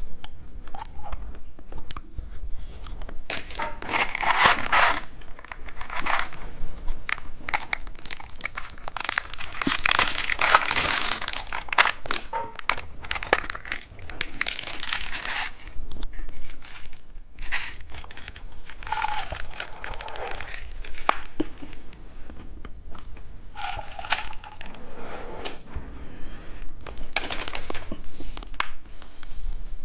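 Close-miked eating of candy: crunching and chewing with sharp clicks, mixed with the crinkling of wrappers or packaging in repeated noisy bursts.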